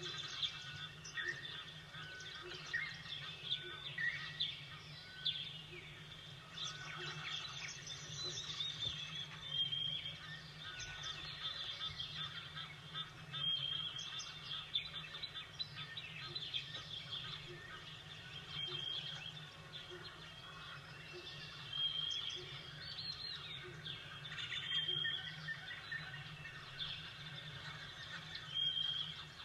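Several small songbirds chirping and calling, with a short high note that repeats every few seconds, over a steady low background rumble.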